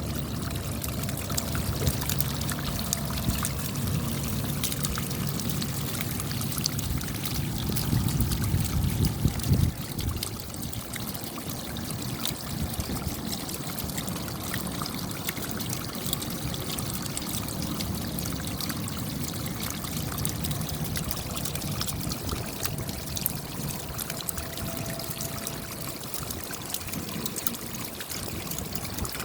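Rain falling, many separate drops ticking over a steady wash of running water. A heavier low rush of water in the first third swells, then falls away abruptly about ten seconds in.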